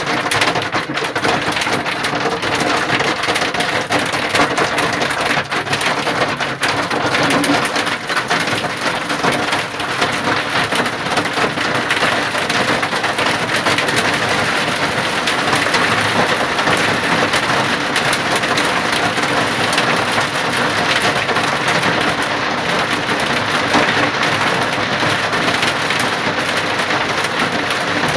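Heavy rain pouring steadily, a dense patter of drops striking a hard surface.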